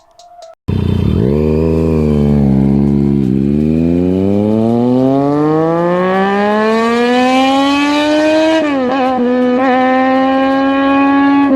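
Triumph Daytona 675R's inline three-cylinder engine accelerating hard. Its exhaust note rises in one long pull, with a brief dip about three seconds in. It dips quickly a few times around nine seconds in, as gears change, then holds a high steady note.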